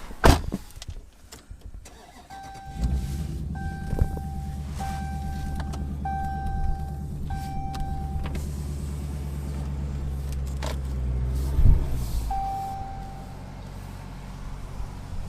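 A sharp thump, then a Dodge Scat Pack's 392 HEMI V8 starts about two seconds in and idles steadily while the car's chime dings about every second, five times. The engine sound stops about twelve seconds in, followed by one more ding.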